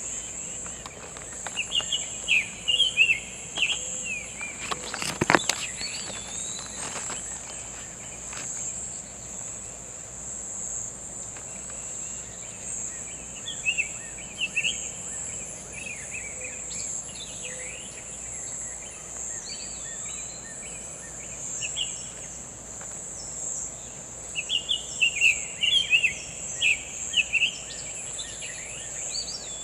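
Summer tanager singing sweet, whistled, robin-like phrases in three bursts: about a second in, around the middle, and near the end. A steady high insect drone runs underneath, and there is one sharp click about five seconds in.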